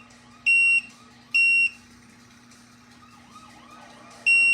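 Electronic alarm beeping: loud, shrill, steady-pitched beeps about a third of a second long, two early about a second apart, then a pause of nearly three seconds before the next beep starts at the end, over a faint steady low hum.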